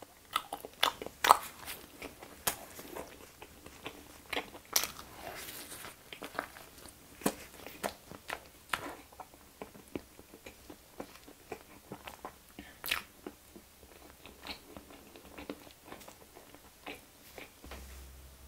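Close-miked chewing of chocolate-filled conch (cornet) bread, with irregular wet smacking clicks from the mouth a few times a second.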